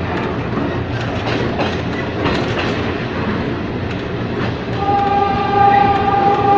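Ex-JR 203 series electric multiple unit running, with a steady rumble and irregular clicks of the wheels over the rail joints. A steady high tone comes back in about five seconds in.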